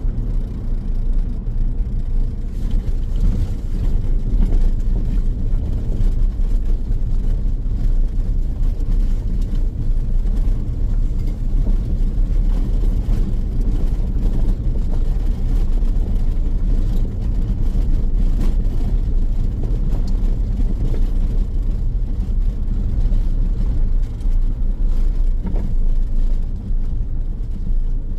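Steady road noise from a car driving along a highway: a continuous low rumble of tyres and engine.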